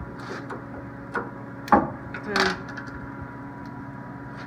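A sharp plastic snap, with a smaller click just before it and a few light ticks: an old light bulb being pulled out of its taillight socket.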